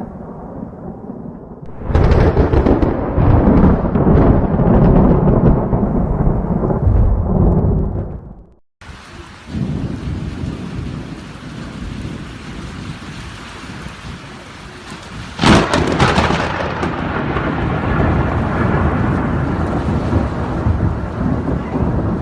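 Thunder rumbling loudly and deeply for several seconds. After a cut, steady rain, then a sharp thunderclap about two-thirds of the way through that rolls on into a long rumble.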